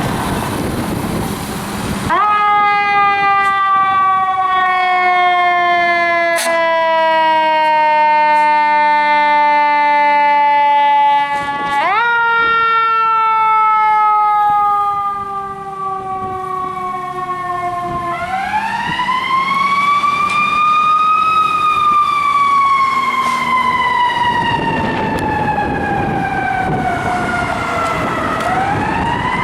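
Fire truck siren sounding as the truck responds, repeatedly jumping or winding up in pitch and then gliding slowly down, about four times. A broad rush of vehicle and road noise comes at the start and again near the end.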